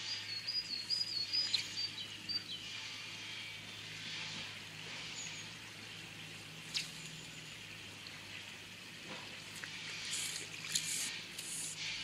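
Outdoor ambience with a small bird singing in high, stepped whistled notes for the first couple of seconds, over a faint steady low hum. A single sharp click comes about seven seconds in, and a few short high hissing bursts near the end.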